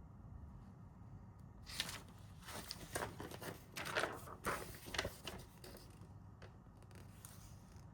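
A quick run of short rustling and scraping handling sounds, loudest about three to five seconds in, over quiet kitchen room tone.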